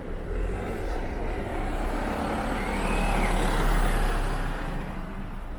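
A motor vehicle driving past close by, its deep engine rumble and tyre noise growing to a peak about four seconds in and then fading.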